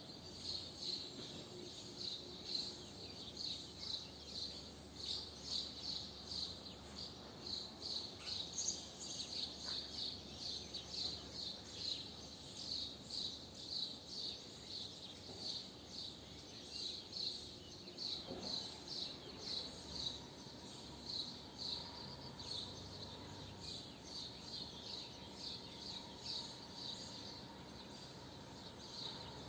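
A bird chirping the same short high note over and over, about twice a second, against faint outdoor background noise.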